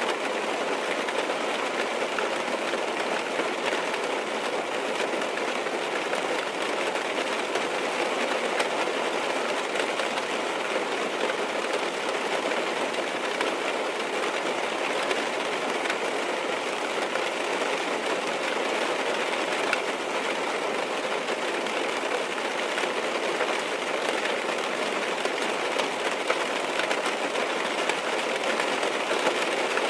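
Rain falling on a car's roof and windows, heard from inside the car: a steady patter of many small drops that does not change.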